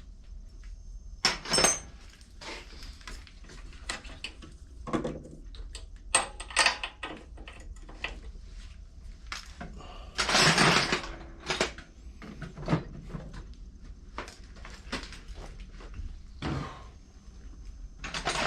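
Metal hand tools clinking and knocking against a lawn mower engine while its spark plug is taken out. There are irregular short clicks throughout and a longer scraping noise about ten seconds in.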